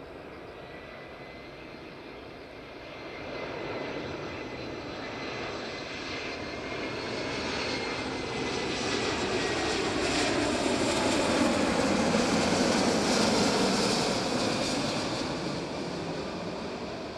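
Airbus A340-300 airliner on landing approach passing overhead, its four CFM56 turbofan engines whining with thin steady high tones over a broad rush. The sound grows louder to a peak about two-thirds of the way through, then fades as a tone slides down in pitch.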